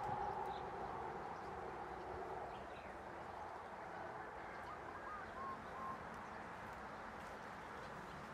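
Birds calling over a steady outdoor hiss, with a few short chirps about halfway through.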